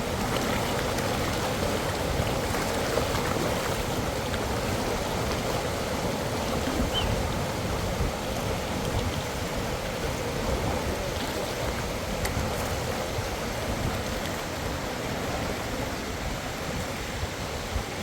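Cascading water rushing steadily, a constant even wash of noise.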